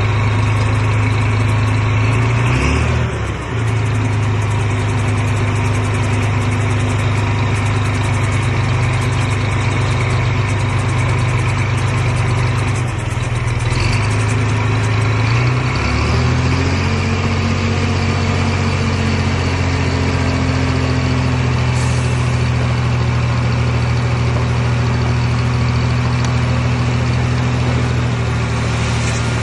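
Bulldozer's diesel engine running steadily under work. Its note dips briefly and comes back up twice, about three seconds in and again around sixteen seconds.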